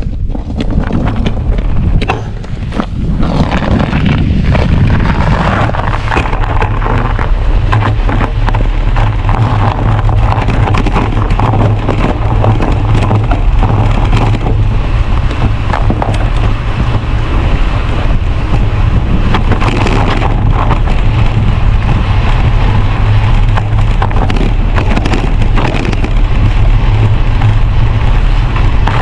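Strong wind rumbling on the microphone during a bicycle ride, with the tyres rolling and crackling over ice and snow as many small clicks.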